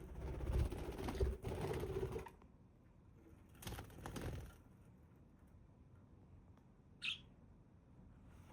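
Budgerigars fluttering and rustling, in two bursts of wing noise, followed about seven seconds in by a single short budgie chirp.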